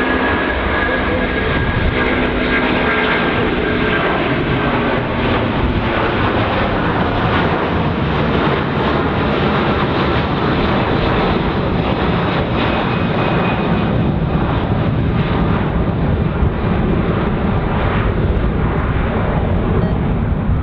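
Jet airliner engines running loud and close. A few steady whining tones fade out over the first several seconds while a broad, even roar carries on and deepens.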